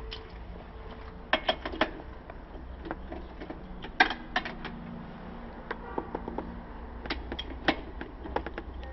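Hand tools and metal parts on a motorcycle rear wheel assembly clicking and clinking: scattered sharp metallic taps, in small clusters, over a low steady hum.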